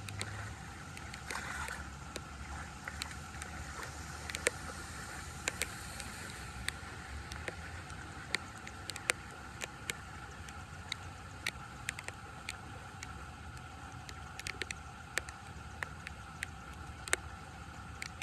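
Water running steadily, with many short, sharp splashes and clicks scattered irregularly throughout.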